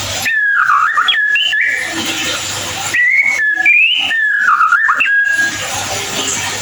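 White-rumped shama (murai batu) singing: two long whistled phrases that step and glide up and down in pitch, the second starting about three seconds in, with a rough scratchy chatter between them.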